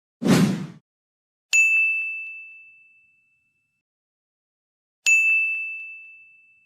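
Bell 'ding' sound effect of the kind laid under subscribe-button animations. It is heard twice, about three and a half seconds apart, each a single bright ring that fades out over about a second and a half. A short burst of noise comes just before the first ding.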